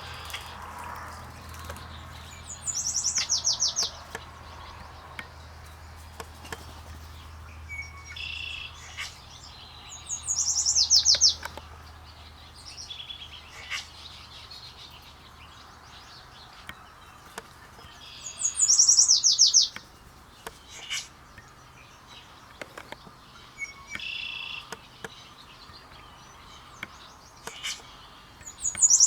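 Songbird giving a rapid, high trill that falls in pitch, about a second long, repeated four times at intervals of about 8 to 9 seconds, with scattered short chips and softer calls from other birds in between.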